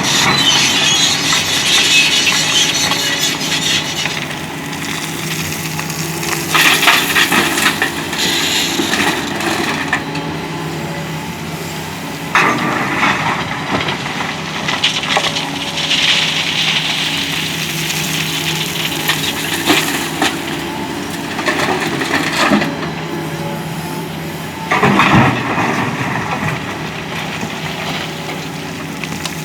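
Doosan DX225LCA excavator's diesel engine running steadily while gravel is dug and dumped into a steel dump-truck bed, with several loud clattering, crunching bursts of falling stones.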